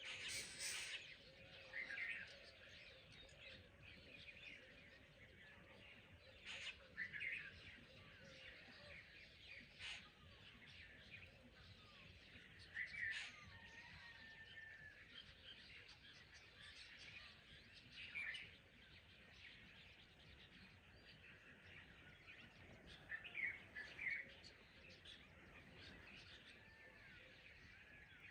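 Faint dawn chorus of several birds: scattered chirps and short calls over a soft, even background hiss.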